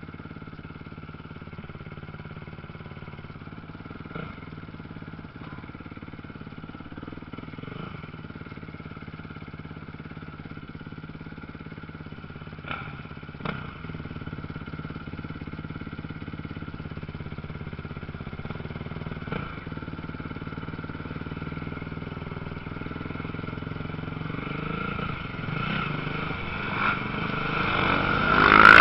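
Motocross motorcycles running on the track, their engines a steady drone, growing louder near the end as a bike comes close. A few short knocks are heard along the way.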